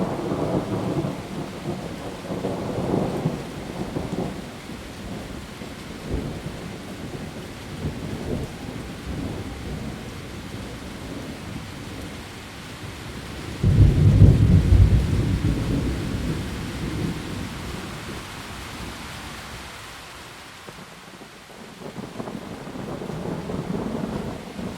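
Heavy rain falling steadily on leaves, with rolling thunder: low rumbles in the first few seconds, then a sudden loud thunderclap about halfway through that rumbles away over several seconds.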